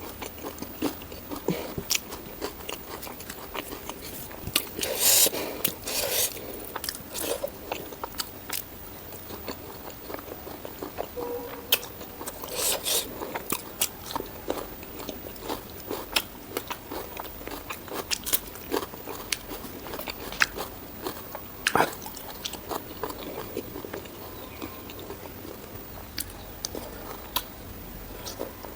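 Close-miked chewing and biting of spicy pork ribs and rice, with many small wet mouth clicks. Louder crunchy bites come about five seconds in and again about thirteen seconds in.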